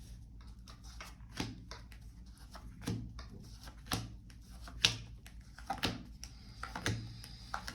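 Tarot cards being shuffled and laid out on a table: a series of separate soft taps and slaps about once a second, the sharpest a little after the middle, over a low steady hum.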